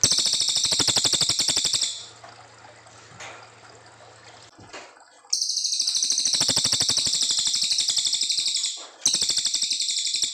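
Cililin coklat songbird singing long, rapid trills of high, evenly repeated notes in three runs: a short one at the start, a long one from about the middle, and another beginning near the end. A faint low hum runs under the first half.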